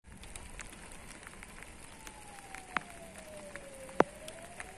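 Rain with scattered small drop ticks, broken by two sharp clicks about three and four seconds in, the second the louder. Under it a faint tone glides slowly down and then back up.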